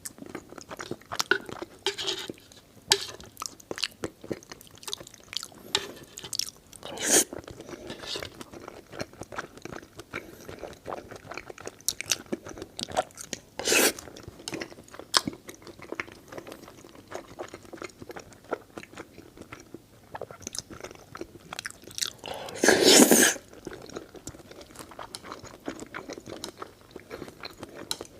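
A person eating eel and noodles close to the microphone: steady chewing and biting with many small crunches and clicks. A louder rush of noise lasting about a second comes late on.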